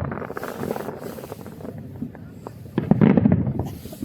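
Aerial fireworks going off: a steady crackle of bursts, then about three seconds in a louder cluster of rapid bangs and crackles that quickly fades.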